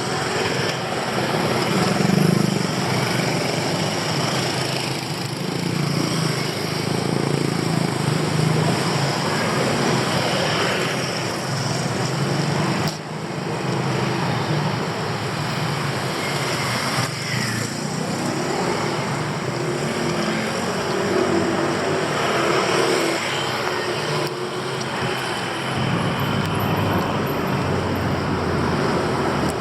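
Steady city road traffic, with motor vehicles running past and the engine hum and tyre noise rising and falling.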